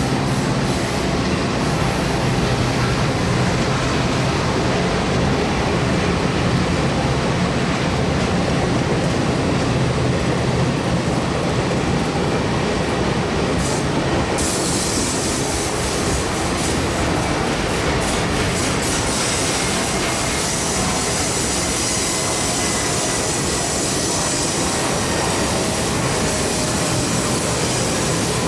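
Circus train passenger cars rolling past, a steady noise of wheels on rail. About halfway through, a brighter, higher hiss comes in.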